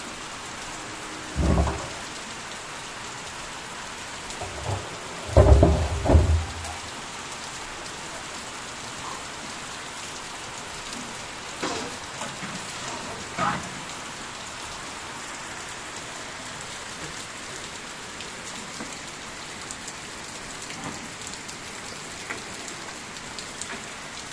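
Heavy rain falling in a steady hiss, broken by a few short loud low thumps, the biggest about a second and a half in and around five to six seconds in.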